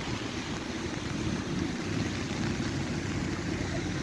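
Wind buffeting the microphone outdoors: a steady, uneven low rumble with a fainter hiss above it.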